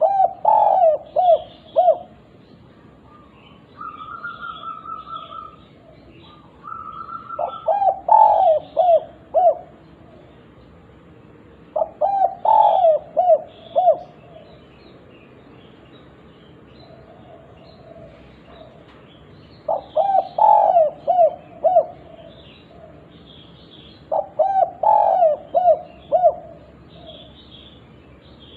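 Spotted dove (derkuku) singing its cooing phrase five times, every five to seven seconds, each a run of five or six quick coos lasting about two seconds. Between the first two phrases a thinner, higher steady note sounds twice, and faint chirps of small birds run underneath.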